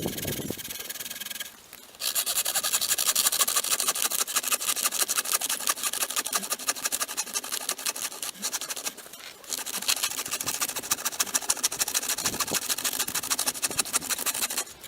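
A hand saw cutting through wood in quick, steady, rasping strokes, with a short pause about halfway through.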